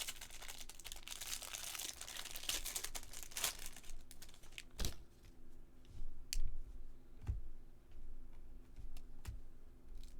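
Baseball card pack wrapper crinkling and tearing open for the first few seconds, then a few sharp clicks as the cards are handled.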